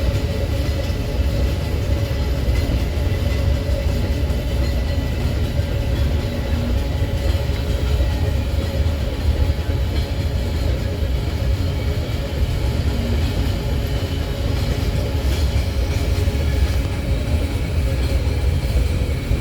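Empty iron-ore freight wagons rolling past at speed: a steady loud rumble of wheels on rail with a few faint steady tones above it.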